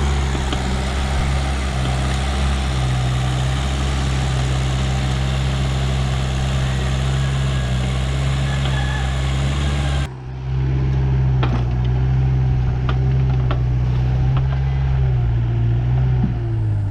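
Backhoe's diesel engine running steadily while it digs, with a brief drop about ten seconds in, a few sharp knocks after it, and the engine note shifting near the end as the load changes.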